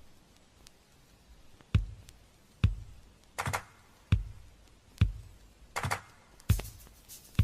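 A sparse drum beat starts about two seconds in after a faint pause: deep kick-drum thumps, with a sharper snare- or clap-like hit on every third beat. This is the opening of a pop song.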